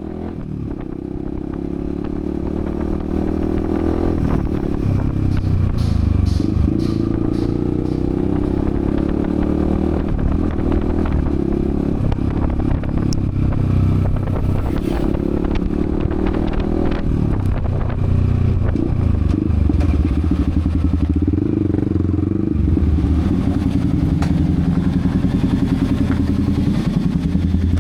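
Yamaha XSR155's single-cylinder engine running under way, its note rising and falling in steps several times as the revs change.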